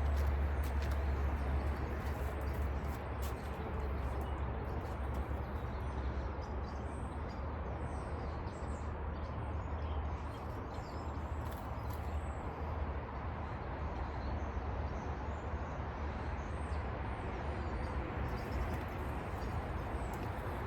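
Small birds chirping, many short high calls scattered through, over a steady low rumble and hiss of outdoor background noise.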